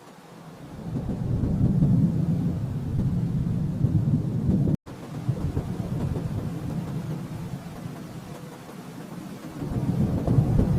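Low rolling thunder, building about a second in, cutting out for an instant near the middle, then easing and swelling again near the end.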